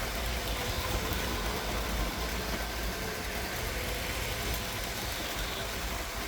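LEGO 9V electric trains running steadily around plastic track: an even motor hum.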